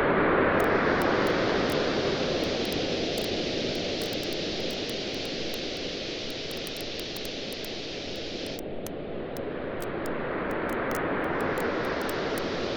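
Waves washing onto a beach: a surge at the start slowly draws back and the next one builds near the end. Light crackling of a wood campfire runs over it.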